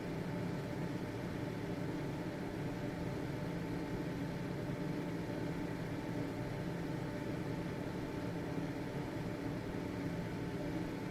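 Household ventilation fan running steadily: a constant motor hum with a few steady low tones over a soft airy hiss.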